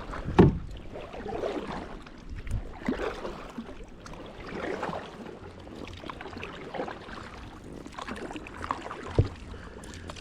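Canoe out on the water: irregular swishing and splashing of paddle or water against the hull, with a sharp thump about half a second in and another near the end.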